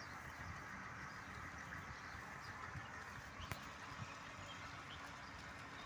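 Outdoor ambience with faint, scattered bird chirps over a steady background hiss and low rumble, and one sharp click about three and a half seconds in.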